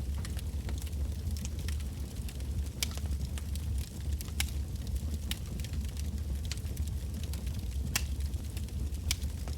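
Wood fire burning: irregular sharp crackles and pops of burning logs over a steady low rumble of the flames.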